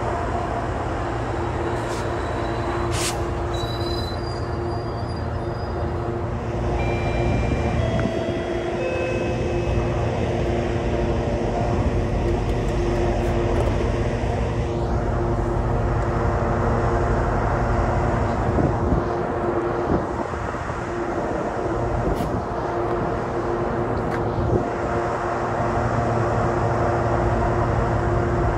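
GO Transit bilevel passenger coaches rolling slowly along the platform, with a steady low rumble and hum. A few short high squeals come about four to ten seconds in.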